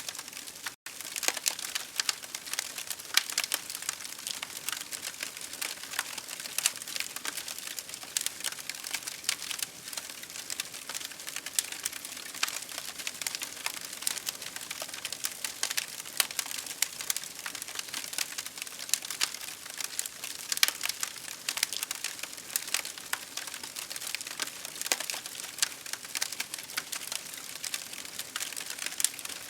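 Campfire crackling, with dense sharp pops and snaps over a steady hiss. There is a split-second gap in the sound about a second in.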